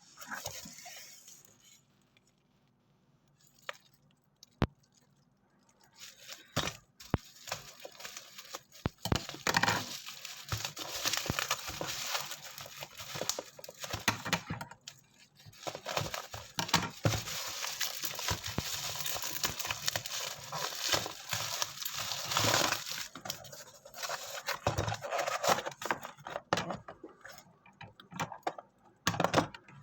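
Packaging of a boxed model aircraft being handled and opened: rustling and tearing with scattered clicks and clinks. Mostly quiet for the first few seconds apart from a couple of sharp clicks, then busy from about six seconds in.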